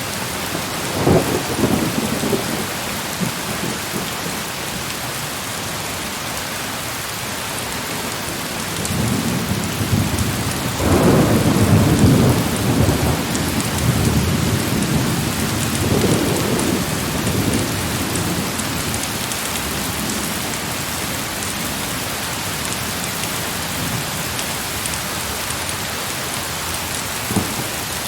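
Heavy rain falling with a steady hiss, and thunder rumbling in low rolls over it. The longest and loudest roll comes about a third of the way in; shorter rumbles come near the start, soon after the big roll, and near the end.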